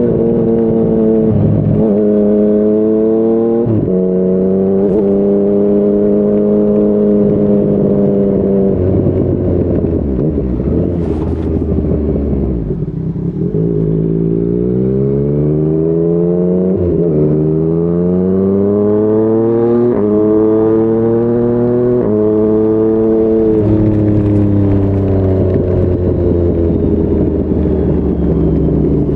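Yamaha MT-09's three-cylinder engine through a Yoshimura R55 slip-on exhaust, pulling hard and rising in pitch, then dropping sharply at each upshift. Around the middle it eases off to a lower note before climbing through the gears again.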